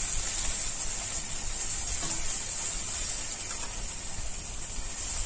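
Onion and spice paste frying in oil in a steel kadai: a steady sizzling hiss as a metal spatula stirs it.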